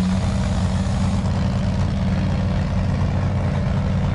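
Modified race engine idling steadily with its bonnet up.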